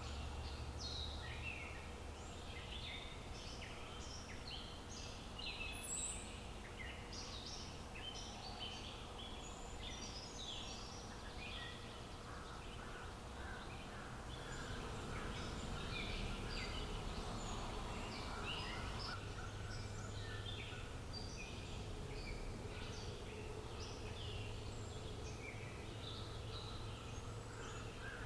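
Many small birds chirping and singing in short, quick, overlapping calls over a steady outdoor background noise.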